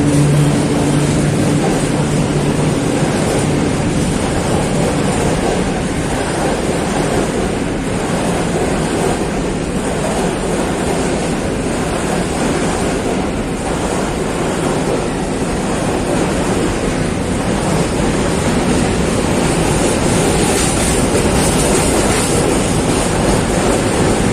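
Loaded open coal wagons of a long freight train rolling past, wheels running steadily over the rails. A low hum dies away about a second in.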